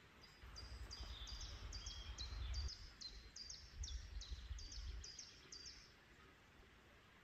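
A small bird singing a long run of high, evenly repeated notes, each dropping sharply in pitch, about two or three a second, stopping about six seconds in. A low rumble rises and falls underneath.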